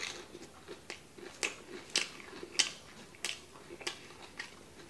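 Chewing a mouthful of crispy oven-baked chicken katsu, with a sharp crunch about every half second.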